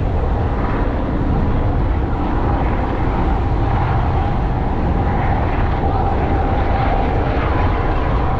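Steady drone of an aircraft engine in flight, with a faint steady whine over a heavy low rumble.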